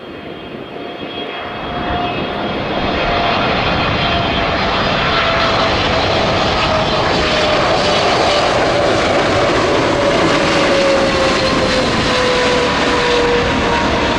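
Boeing 777-300 freighter on final approach, its jet engines growing louder over the first few seconds and then holding loud. Whining tones in the engine noise slide slowly down in pitch as it passes.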